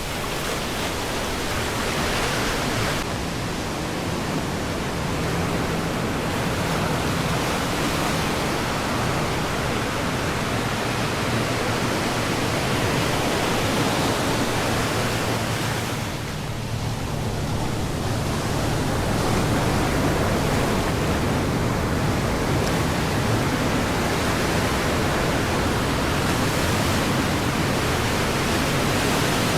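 Ocean surf rushing steadily, swelling and easing, with a brief lull about sixteen seconds in.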